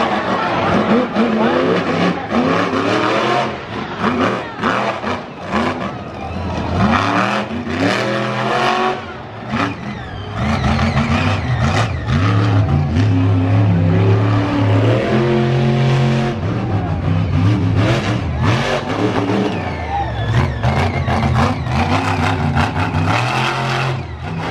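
Monster truck engine revving hard, its pitch rising and falling over and over, with long stretches held at high revs. Sharp cracks and bangs cut through it.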